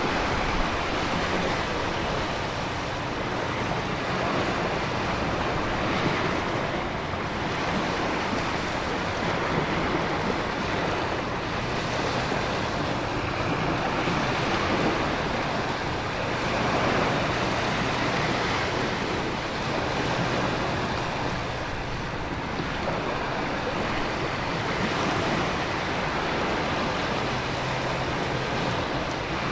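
Storm ambience of heavy rain and wind over ocean surf: a dense, steady rushing that swells and eases every few seconds.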